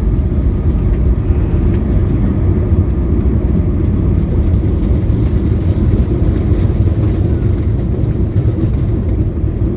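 Steady low rumble of an Airbus A320-232's IAE V2500 engines and airframe, heard from inside the passenger cabin.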